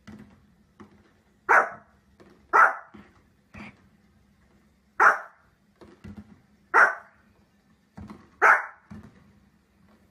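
Small fluffy dog barking in short, sharp, irregular barks, five loud ones with a few softer yaps between.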